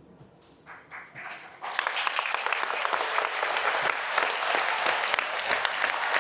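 Audience applause: a few scattered claps, then about a second and a half in the whole crowd breaks into steady clapping.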